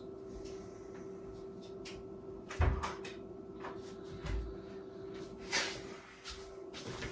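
Small plastic knocks and clicks from handling a cassette walkman and its battery cartridge, a few separate knocks with the loudest about two and a half seconds in, over a steady faint hum.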